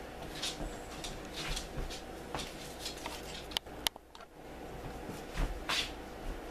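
Handling noises of a LEGO set being moved: scattered rustles and soft knocks, with two sharp clicks a little past the middle.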